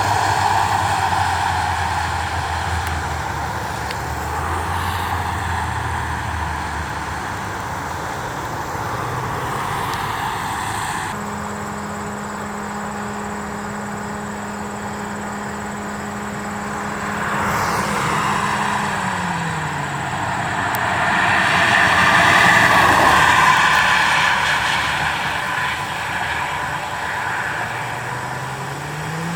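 Road traffic: vehicle engines and tyres passing. An engine drone drops in pitch as it goes by about two-thirds of the way through, and a louder vehicle passes shortly after. No siren is sounding.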